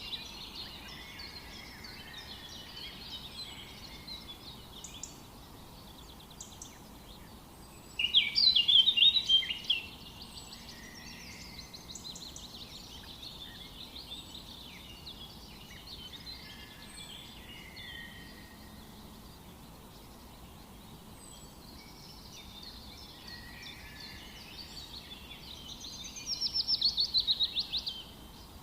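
Several songbirds singing in a forest: a continuous mix of chirps and short phrases. A louder burst of rapidly repeated notes comes about eight seconds in, and another near the end.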